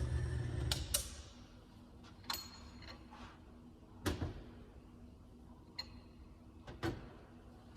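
The low hum of a motor-driven bearing-and-race oil friction test machine stops about a second in. A handful of separate sharp metallic clicks and knocks follow, some with a short ring, as metal parts are handled.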